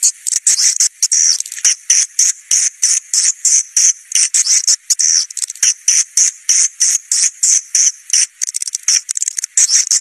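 Swiftlet caller recording: a continuous stream of short, high-pitched swiftlet chirps, several a second, of the kind played to call flocks of swiftlets into a nesting house.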